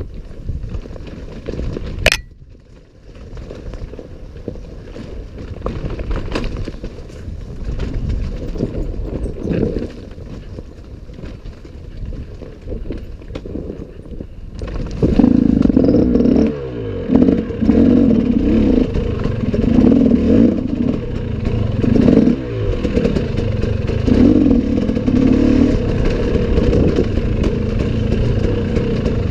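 Off-road enduro motorcycle engine, running low and muffled with clatter for the first half. From about halfway it runs loud, revving up and down again and again as the throttle is worked, with a sharp knock about two seconds in.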